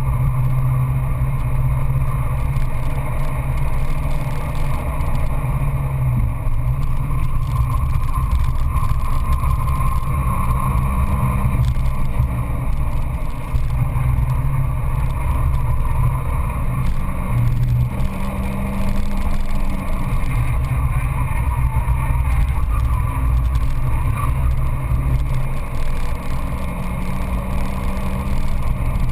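Peugeot 206 GTI S16's four-cylinder engine running hard at speed, heard from inside the cabin over wind and road noise. The revs fall and climb again several times.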